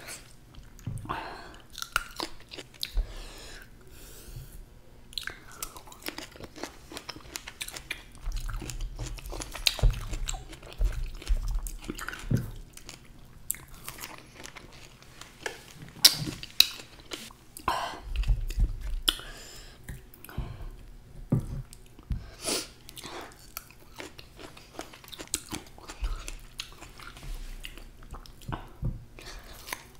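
Close-miked chewing and biting of fresh fruit dipped in chocolate spread: wet, sticky mouth sounds with many short, sharp smacks and clicks, the sharpest about halfway through.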